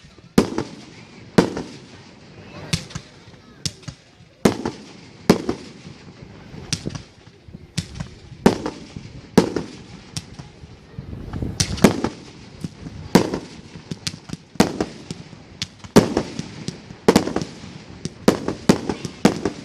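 Aerial fireworks shells bursting in a rapid, irregular series of sharp bangs, each trailing off in a short rumbling echo, about one a second at first. The bangs come faster, several in quick succession, near the end.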